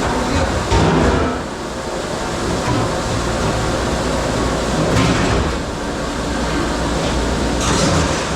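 Dish-room noise: a steady low machine rumble, with short clatters of dishware about a second in, around five seconds in and again near the end.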